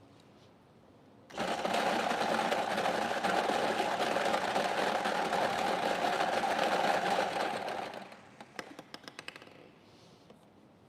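A prize-draw machine runs with a fast, steady rattle for about six and a half seconds, starting about a second in. It then winds down into a few separate clicks that slow and stop as the drawn number settles.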